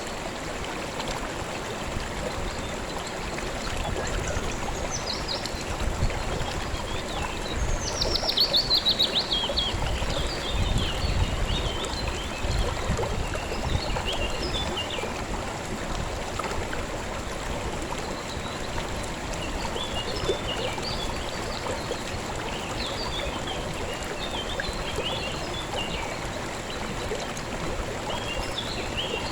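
A river flowing steadily, with small birds chirping over it: a quick run of falling notes about eight seconds in, and scattered short chirps in the second half.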